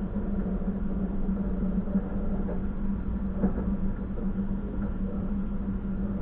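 Passenger train running, heard from inside the carriage: a steady low rumble with a constant hum and a faint knock about three and a half seconds in.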